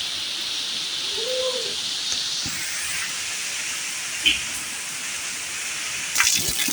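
Heavy rain falling steadily as an even hiss, with a few sharper splashes and drips near the end and a brief faint call about a second in.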